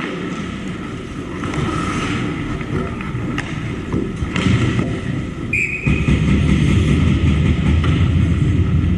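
Hockey game sounds in a rink: a steady rumbling din with a few sharp clacks and a brief high tone about five and a half seconds in, the low rumble growing louder from about six seconds in.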